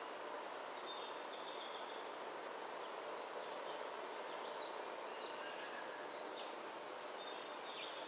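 Wild songbirds giving short, high chirps and calls, scattered throughout, over a steady outdoor background noise.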